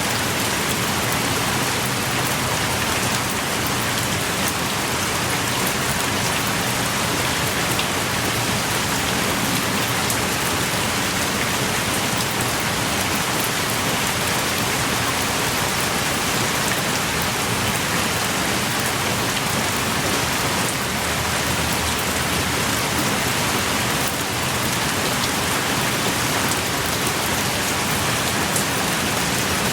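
Steady heavy rain pouring and pattering on the rock and ground at a cave mouth, an even hiss with scattered drops.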